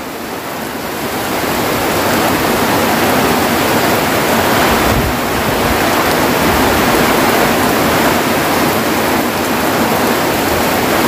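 Fairly heavy rain falling steadily: a dense, even hiss that builds slightly over the first couple of seconds and then holds.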